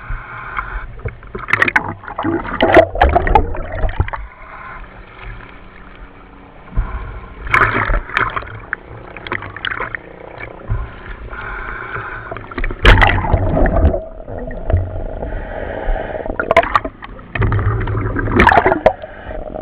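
A diver's breathing heard through the dive communications radio: a loud rush of breath every five seconds or so over a steady, thin, radio-limited hiss.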